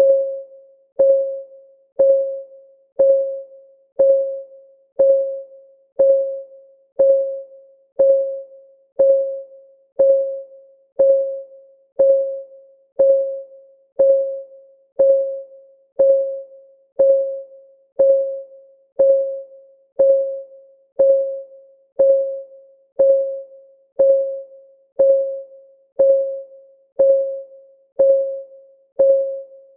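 Clock ticking, one tick a second, each tick a short, clear, slightly pitched tone that dies away quickly.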